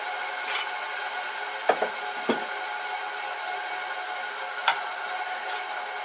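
Bench grinder running with a steady whine, while tools are handled with a few sharp clicks and knocks, several close together about two seconds in.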